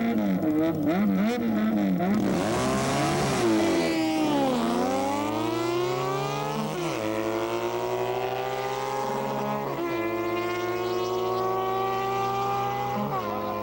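Motorcycle engine revved up and down at the start line, then launched hard about two seconds in and run up through the gears, the pitch dropping at each of four upshifts before climbing again, growing slightly fainter as it pulls away.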